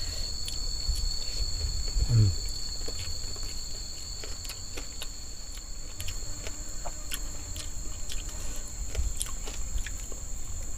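Steady high-pitched drone of forest insects on two pitches, with scattered small clicks and crunches from someone eating fried fish by hand.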